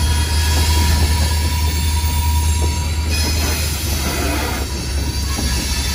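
Freight train moving slowly on jointed track: steel wheels rolling on rail with a faint high wheel squeal over a steady low rumble.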